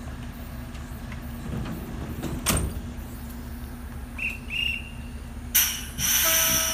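A small Oigawa Railway passenger train stands at the platform with a steady low hum. A knock comes about two and a half seconds in, then two short whistle peeps. Near the end a sharp bang is followed by a loud burst of air hiss as the train readies to pull out.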